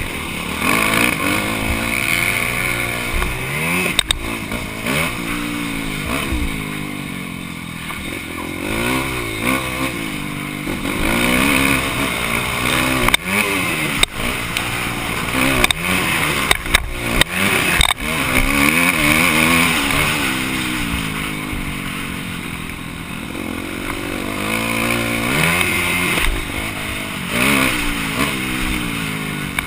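Motocross motorcycle engine heard on board, revving up and dropping back again and again as it accelerates and shifts. Several sharp knocks come in the middle.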